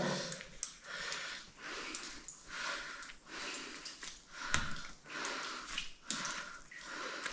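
A person breathing hard and fast in a steady rhythm, about ten breaths in a row, with a few scrapes and clicks from a body moving through a tight, muddy squeeze.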